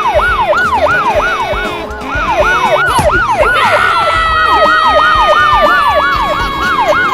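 A siren on its fast yelp, sweeping up and down in pitch about three to four times a second. From about halfway through, a second long tone slides slowly down underneath it.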